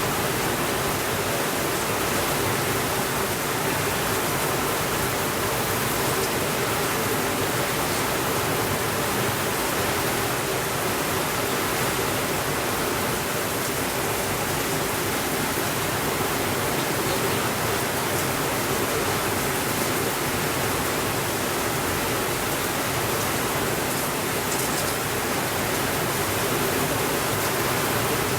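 Steady rainfall: an even, unbroken hiss with a few faint ticks.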